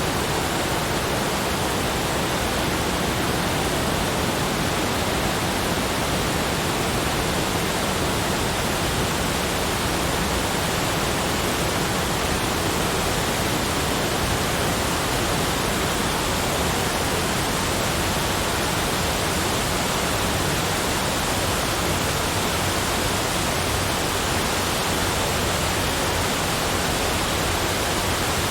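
Steady, unchanging rushing noise, spread evenly from deep to high pitches, with no separate events.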